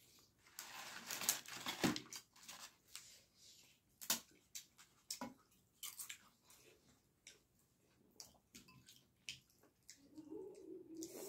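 People chewing and biting food, with irregular crisp crunches and wet mouth clicks, as pieces of fried papad and chicken are eaten by hand.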